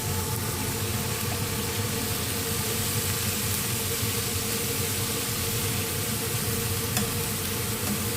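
Chicken fajita filling sizzling steadily in a frying pan, with a steady hum underneath.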